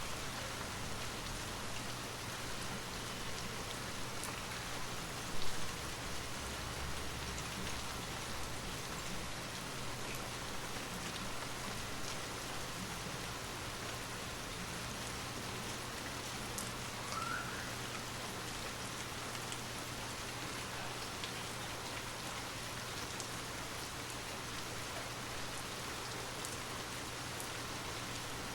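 Steady rain falling, an even hiss with scattered individual drop ticks. A brief thump sounds about five seconds in.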